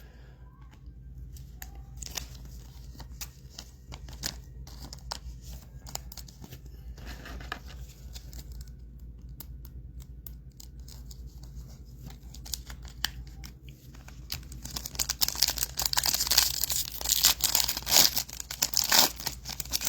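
Trading cards being handled with faint scattered clicks, then about two-thirds of the way in a foil trading-card pack wrapper being torn open with a louder, dense crinkling and tearing.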